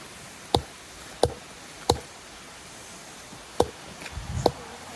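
Axe striking a log, chopping a groove into it: five sharp blows, three about two-thirds of a second apart, then a pause of over a second and two more.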